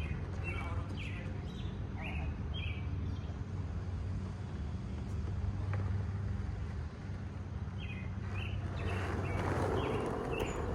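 A small bird chirping in short, quickly repeated falling notes, in two spells, over a steady low rumble. A rushing noise builds over the last couple of seconds.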